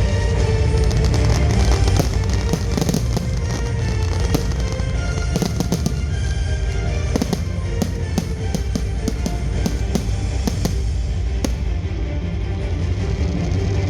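Fireworks bursting and crackling, with many quick sharp cracks, thickest in the middle, over loud music with a heavy bass.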